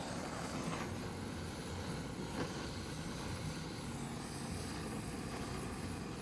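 Gas burner running steadily, its flame blowing onto the firewood to light a campfire.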